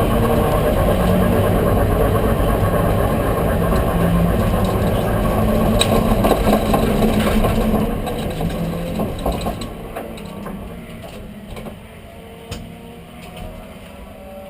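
A Ford Escort 1300GT's four-cylinder engine running steadily, then dying away from about eight seconds in, leaving quieter sound with a few sharp clicks.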